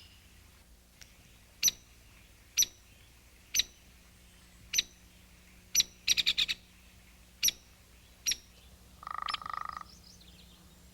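Woodpecker giving short, sharp, high single call notes, roughly one a second, with a quick run of notes about six seconds in and a brief buzzing rattle near the end.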